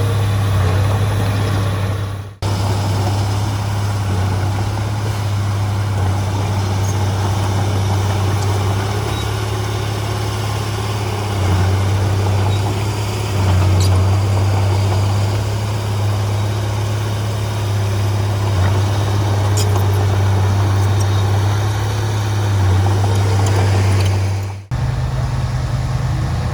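Heavy diesel engine of earthmoving machinery running steadily with a low hum that rises and falls slightly in pitch. The sound breaks off abruptly twice, about two seconds in and near the end, and after the second break the engine runs at a higher pitch.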